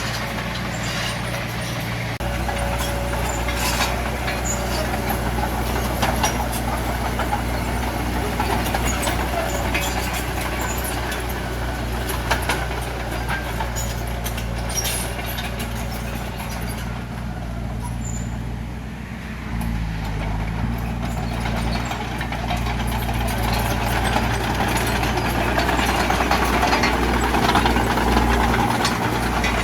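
Bulldozer's diesel engine running steadily, with frequent metallic clanks and rattles over it; the engine note dips briefly and then picks up again about two-thirds of the way through.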